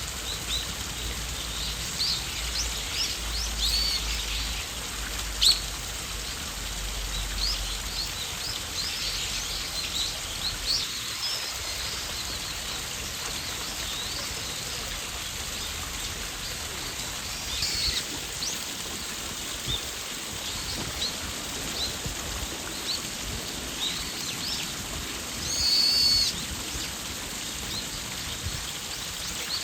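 Wild songbirds chirping and calling, short high calls scattered throughout, with a louder call near the end, over a steady outdoor background hiss.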